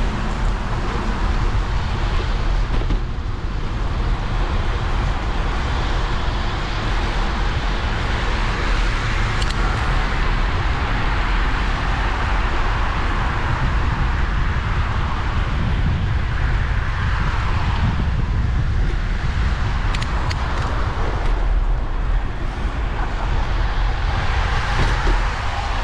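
Steady noise of a bicycle ride in the rain: tyres hissing on wet pavement over a deep rumble of wind on the microphone, with a couple of faint clicks.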